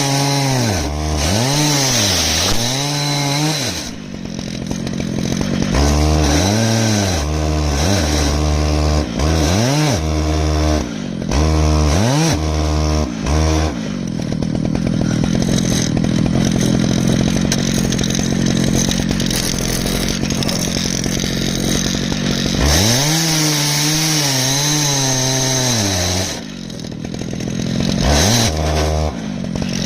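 Stihl MS881 two-stroke chainsaw on an Alaskan chainsaw mill, cutting through an ash log. The engine pitch swings up and down again and again, with a stretch of steadier running in the middle.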